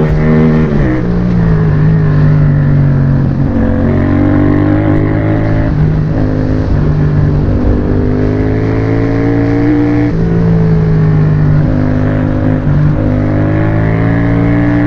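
Yamaha MT-07 parallel-twin engine through an aftermarket exhaust, accelerating hard. The note climbs and drops back at each upshift, about three times.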